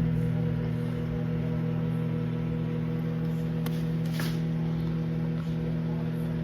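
COMFEE retro compact microwave oven running: a steady electrical hum with a faint brief rustle about four seconds in.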